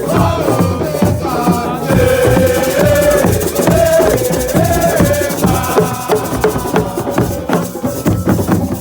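Group singing with percussion: a sung melodic line over a steady rhythm of drums and rattling hand percussion, the voices strongest from about two seconds in until about six seconds.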